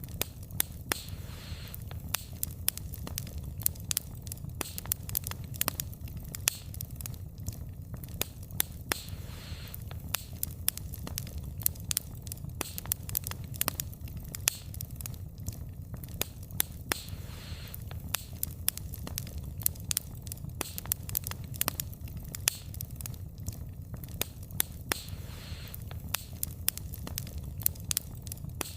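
Burning wood fire crackling: irregular sharp pops and snaps of the logs over a steady low rumble of the flames, with a soft hiss swelling up every several seconds.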